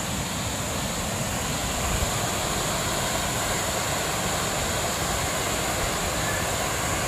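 Steady rush of a forest waterfall, with a constant high hiss above it.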